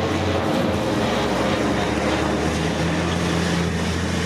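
Race truck's diesel engine running hard at speed, a steady drone.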